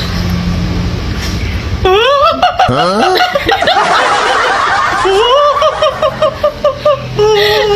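A person laughing in high-pitched, wavering bursts, starting about two seconds in.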